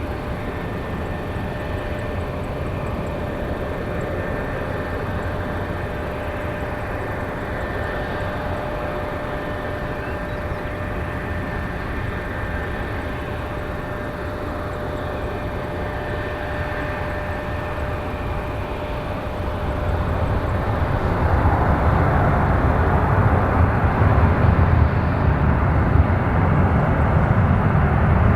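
Aircraft jet engine noise, a steady rumble with a faint whine, growing louder about two-thirds of the way through.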